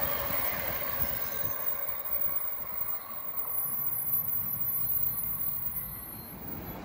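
Passenger train running along the track, with a faint wheel ringing that fades over the first couple of seconds.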